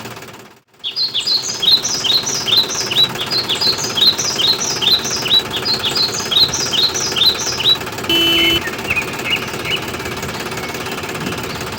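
A bird chirping in a quick run of short falling chirps, about three a second, over a steady mechanical hum. A short steady beep-like tone sounds about eight seconds in, followed by a few fainter chirps.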